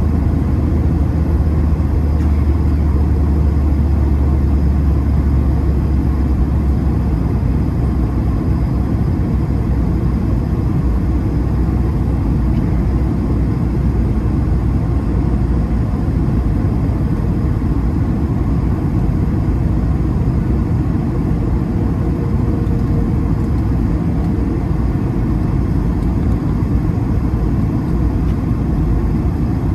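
Steady cabin noise inside an Airbus A220-300 in flight: the even rush of air and the hum of its Pratt & Whitney PW1500G geared turbofans. A deep low rumble in it eases off about seven seconds in.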